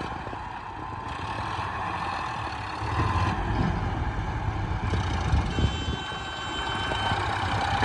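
Heavy diesel engine running steadily, getting louder about three seconds in, with a faint high whine near the end.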